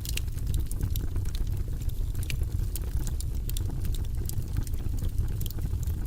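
Wood fire burning in a fireplace: frequent sharp crackles and pops over a steady low rumble of flames.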